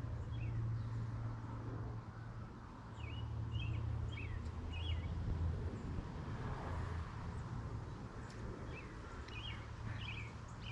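Small birds chirping in short, quick calls over a steady low hum.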